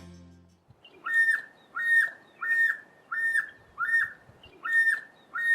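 Common scimitarbill calling: a string of clear whistled notes, about one every 0.7 seconds, each dropping off at its end.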